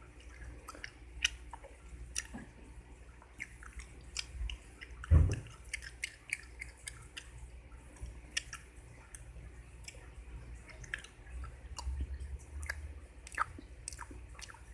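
Mint chewing gum being chewed up close to the microphone, deliberately exaggerated, in a run of irregular sharp mouth clicks. One louder low thump comes about five seconds in.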